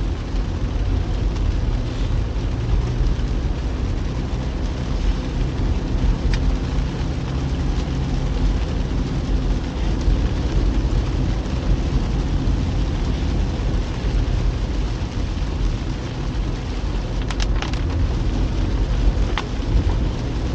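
Steady rumble of a car driving on a wet road in the rain, with a few faint ticks near the end.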